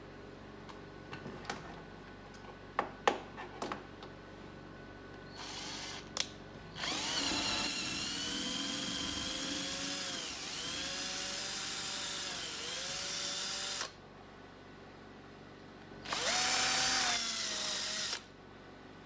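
A small electric drill or rotary tool runs for about seven seconds, its whine dipping briefly in pitch a couple of times as it bites into the work. It runs again for about two seconds near the end. A few light clicks and taps come before the first run.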